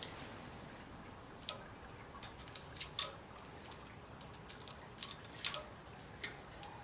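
Irregular sharp metallic clicks and ticks from hand work on a Ford 302 small-block's valvetrain, as roller rocker arms and fulcrums are fitted and their bolts turned.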